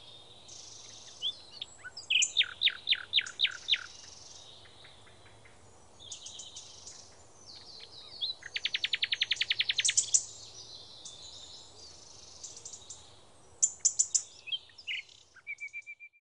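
Wild birds singing and calling outdoors: a run of about seven clear notes a few seconds in, a fast trill about eight and a half seconds in, and scattered chirps and short phrases. The sound stops suddenly just before the end.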